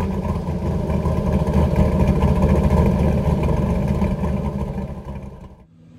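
Vehicle engine running with a loud, deep rumble just after starting, fading and then cutting off abruptly near the end.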